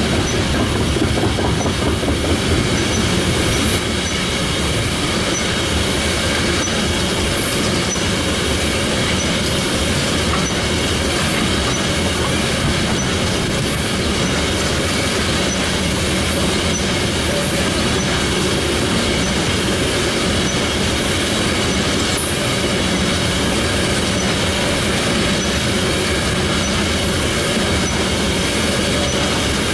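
Freight train of loaded tank cars rolling steadily past at close range: a continuous rumble of steel wheels on rail, with scattered clacks as the wheels pass over the rail joints.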